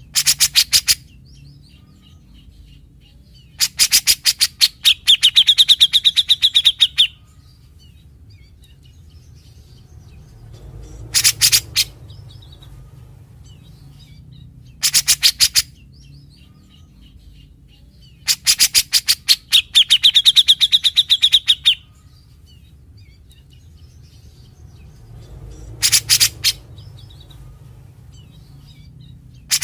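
Brown-cheeked bulbul (cucak jenggot) giving loud bursts of rapid, harsh rattling notes, the characteristic 'besetan' of this species. Some of the longer bursts run into a held whistled note. The same series of phrases comes round again about fifteen seconds later, over a low steady hum.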